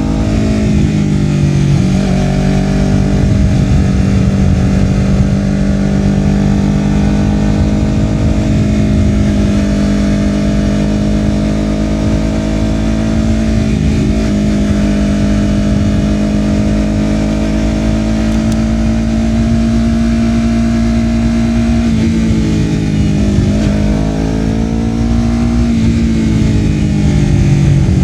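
Honda CBR250RR parallel-twin engine through a Yoshimura R-11 slip-on exhaust, running under way at a mostly steady engine speed. A few times the pitch dips briefly, and near the end it falls and climbs again as the throttle is eased and reopened.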